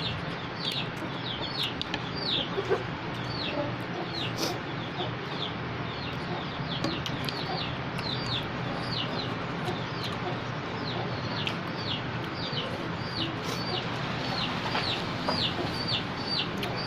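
Chicks peeping: a steady stream of short, high, falling peeps, two or three a second, over a low steady hum.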